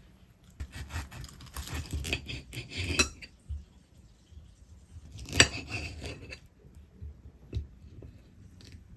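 Dishes and cutlery clattering and clinking, busiest in the first few seconds, with a sharp clink about three seconds in and the loudest knock about five and a half seconds in.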